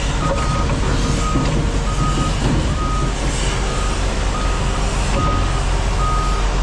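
Backup alarm on heavy equipment beeping at an even pace, about one and a half beeps a second, over the steady rumble of running heavy machinery.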